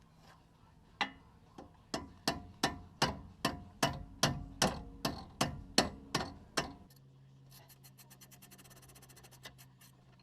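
Hammer blows on the seized metal of a Jeep sway bar disconnect link: about a dozen ringing strikes at two to three a second. After them, near the end, comes a fast run of light metallic clicking.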